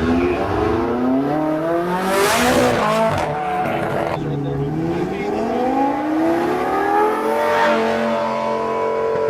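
A car engine accelerating hard, its pitch climbing, falling back for a moment about three seconds in, then climbing again and holding high near the end. There is a brief rush of noise as it passes about two seconds in.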